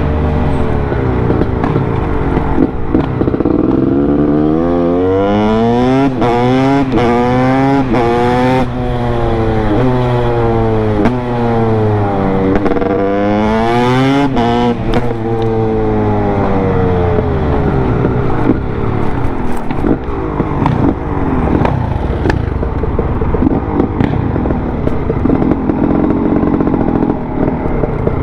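Honda CR250's single-cylinder two-stroke engine revving up and down again and again, its pitch rising and falling in long sweeps. Later it settles into rougher, more uneven running.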